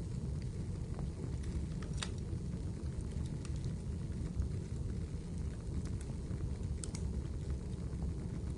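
Wood fire burning in a fireplace: a steady low rumble with scattered sharp crackles and pops, a few per second at most.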